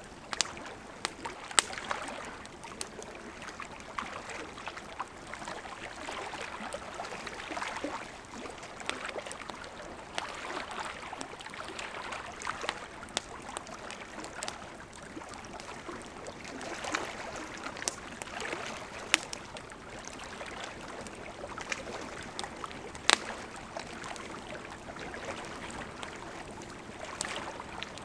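Wood campfire burning with a steady soft hiss and frequent sharp crackles and pops, a few of them louder snaps.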